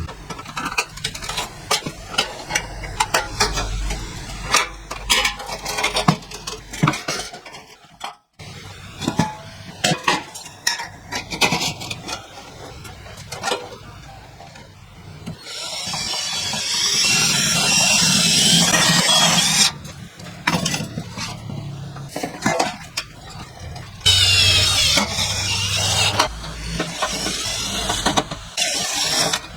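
Metal clinking and knocking, many separate light impacts, then two long stretches of loud scraping, hissing noise, the first about halfway through and the second near the end.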